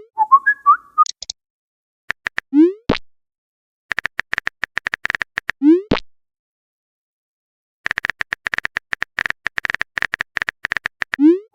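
Messaging-app sound effects: two runs of fast typing clicks, each ended by a short rising 'bloop' as a message goes out. A chirpy run of quick tones near the start and another bloop with a click about three seconds in mark messages arriving.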